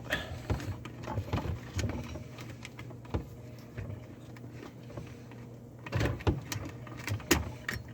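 Scattered light clicks, taps and scrapes of hands and small tools working at a garbage disposal's wiring connections, with a couple of sharper knocks near the end, over a steady low hum.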